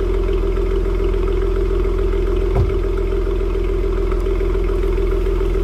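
Dodge Challenger V6 idling steadily through a Borla ATAK cat-back exhaust, with one short knock about two and a half seconds in.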